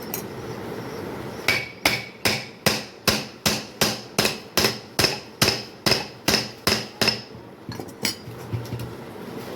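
Hammer blows in a steady rhythm, about fifteen strikes at two to three a second, followed by a few lighter taps near the end.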